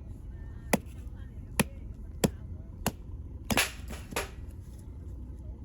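A series of sharp knocks: four single cracks spaced a little under a second apart, then two rougher, longer clattering knocks, over a steady low rumble.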